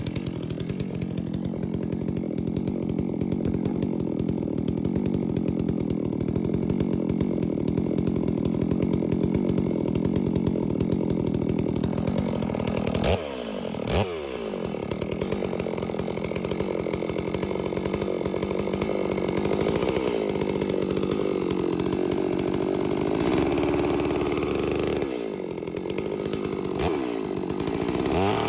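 Holzfforma G660 two-stroke chainsaw running at high revs in a cut. Its engine note drops sharply twice about halfway through, comes back up, and dips and recovers a few more times near the end.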